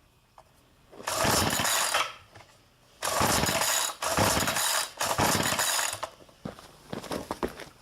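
Recoil starter of a small gas engine being pulled three times, each pull a loud rasping rush of the cord and ratcheting starter, without the engine catching on a cold start. Light clicks follow near the end.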